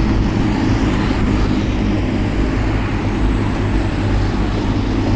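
Class 185 diesel multiple unit's engine running steadily at a platform: a loud low rumble with a thin steady high whistle above it.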